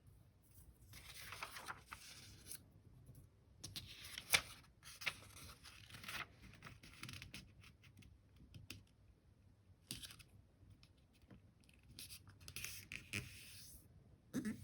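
A sheet of paper folded and creased by hand: irregular rustling and scraping strokes, with the sharpest snap about four seconds in.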